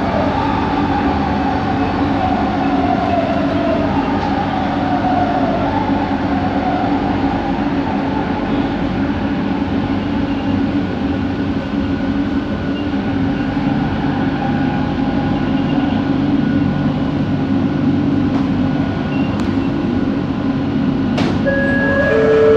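Cabin running noise of a Bombardier Innovia ART 200 metro train driven by linear induction motors, moving at speed. Steady rumble with a motor whine that glides down and up in pitch over the first several seconds, the odd motor noise of this train. A brief steady tone sounds near the end.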